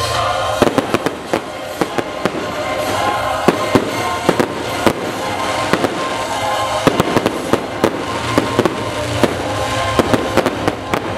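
Aerial fireworks shells bursting in many sharp, irregularly spaced bangs, starting about half a second in. Music plays steadily underneath.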